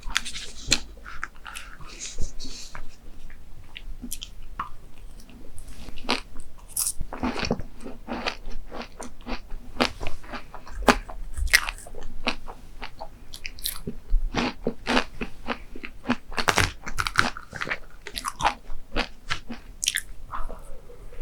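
Close-miked eating: irregular crisp crunches and bites followed by chewing of crunchy desserts, with no pause longer than a second or so.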